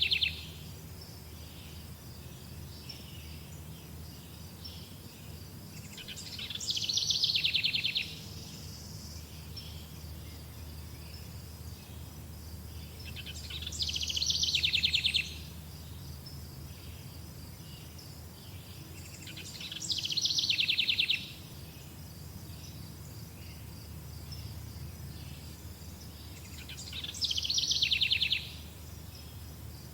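A songbird repeats the same short song about every seven seconds, five times. Each phrase builds up and ends in a fast, loud trill.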